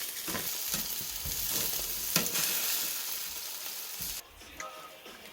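Food sizzling on a hot cooking surface, a steady hiss with a few light clicks, cutting off suddenly about four seconds in.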